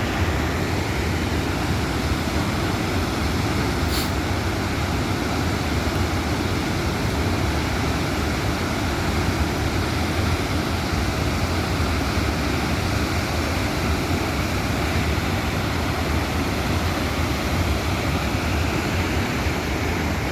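Steady roar of a large waterfall's fast water, with a deep low rumble and no let-up.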